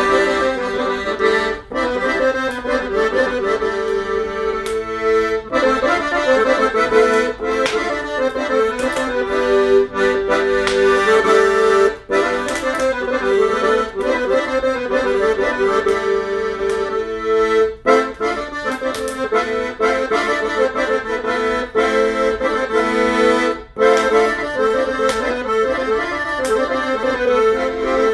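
Accordion playing a traditional folk tune: a lively melody over sustained chords, with a few momentary breaks between phrases.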